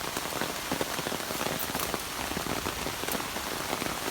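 Heavy rain falling steadily, a dense hiss of countless drops striking the ground and vegetation.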